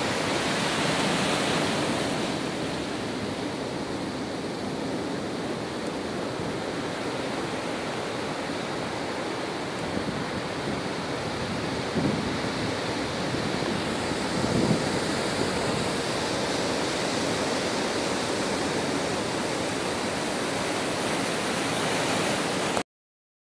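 Steady rushing noise of a storm, wind and water together, with two brief louder surges about halfway through; it cuts off suddenly near the end.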